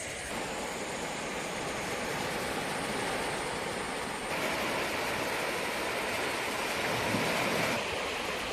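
Sea waves washing onto the shore, a steady rush that swells a little about four seconds in.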